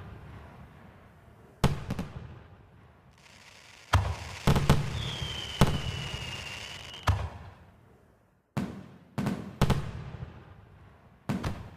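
Fireworks shells bursting overhead: about a dozen sharp bangs, several in quick pairs, each with a deep boom that rolls away. About five seconds in, a high whistle sounds for roughly two seconds, dipping slightly in pitch.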